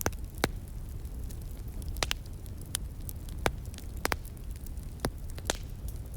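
Wood fire crackling, with sharp irregular pops about every half second to second, over a steady low rumble and the faint hiss of a flowing stream.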